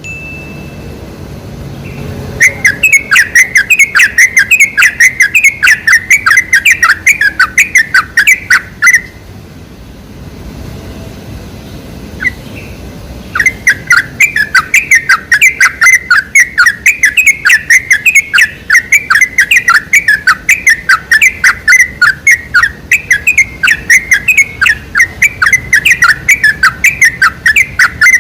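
Yellow-vented bulbul (trucukan) singing a fast, bubbly run of repeated chirps, in two long bouts with a pause of about four seconds between.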